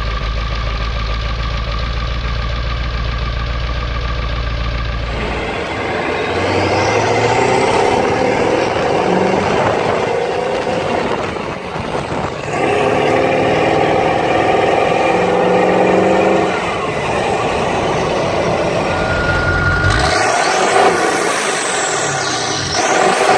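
1996 Ford 7.3 Powerstroke turbo-diesel V8, straight-piped through a side pipe, idling steadily and then revved several times from about five seconds in. A high whistle rises with the revs.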